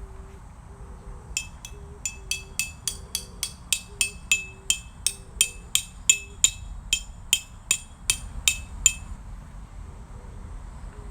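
Hammer striking a metal tent peg into the ground: about twenty sharp blows at roughly three a second, each with a bright metallic ring, stopping about nine seconds in.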